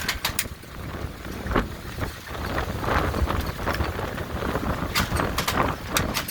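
Severe thunderstorm wind gusting with rain, the gusts buffeting the microphone in low surges that rise and fall, with sharp taps scattered through, loudest near the end.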